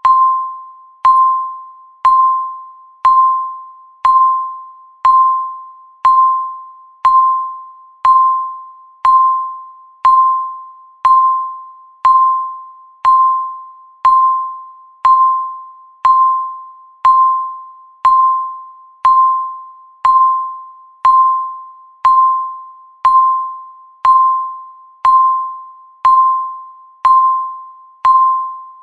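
Countdown timer beeping once every second: a single clear electronic ding, the same pitch each time, that strikes sharply and fades away before the next one.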